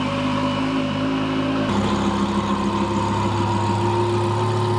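A loud car engine idling steadily. About two seconds in, the sound switches abruptly to a different steady idle.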